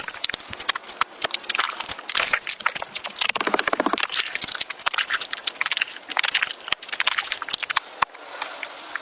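A dense, irregular run of sharp knocks and clicks, with a short rasping patch about three and a half seconds in.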